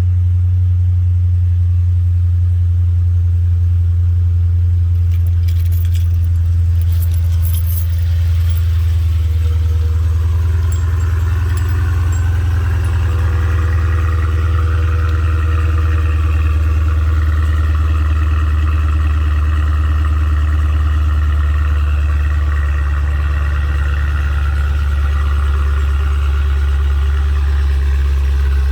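Dodge Challenger Scat Pack's 392 HEMI 6.4-litre V8 idling after a cold start, a steady, loud, low rumble. A faint light jingle comes about six seconds in.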